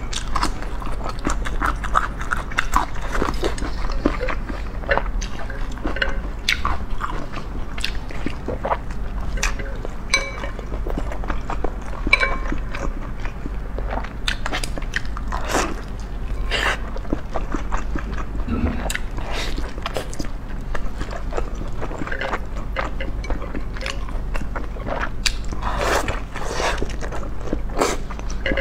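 Close-miked chewing of a large steamed bun dipped in sauce: soft bites, wet mouth clicks and smacking that come irregularly, several a second, over a steady low hum.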